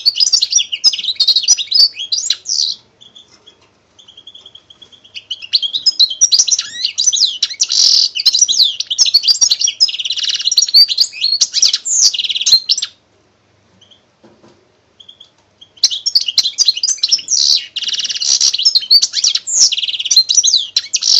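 Birdsong: rapid high chirps and trills in long runs, pausing briefly about three seconds in and again around thirteen seconds.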